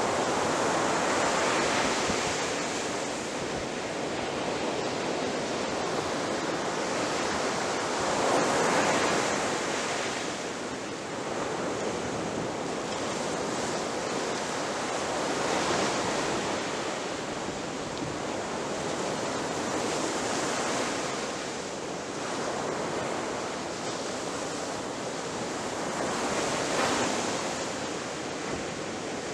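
Ocean surf breaking on a beach: a continuous wash of waves that swells and eases every six to eight seconds, loudest about nine seconds in.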